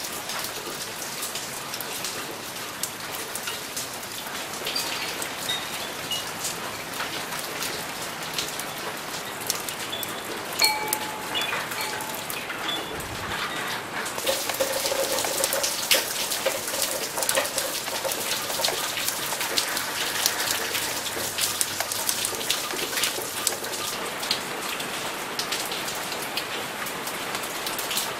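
Steady rain falling on paving and plants, with many close drops ticking and splashing; it grows a little heavier about halfway through.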